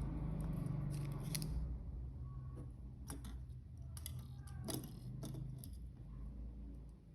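Close handling noise: a low rumble with several sharp clicks and scrapes, around a second in and again from about three to five and a half seconds in.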